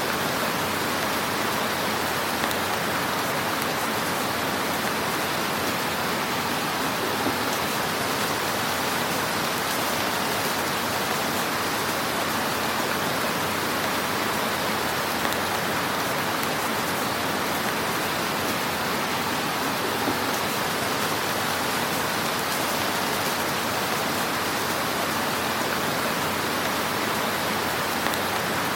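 Log fire in a fireplace crackling steadily with a hiss, with a few slightly louder pops here and there.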